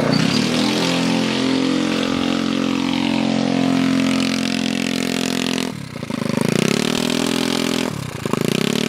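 Pit bike engine running at a steady high note. About two-thirds in the throttle is chopped and it revs back up, then it does the same again near the end.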